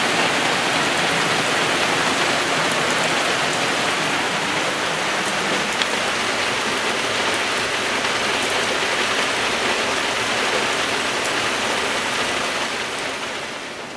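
Very heavy rain, around 100 mm an hour, pouring down in a dense steady hiss with scattered drop hits; it eases somewhat near the end.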